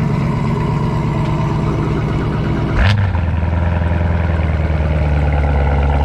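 Chevrolet V8 engine idling after a cold start. About three seconds in there is a sharp click, and the sound shifts abruptly to a deeper steady drone.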